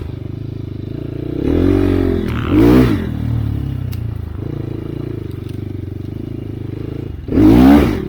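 Enduro dirt bike engine running at low revs, blipped up and down three times by the throttle, with the last blip the loudest near the end.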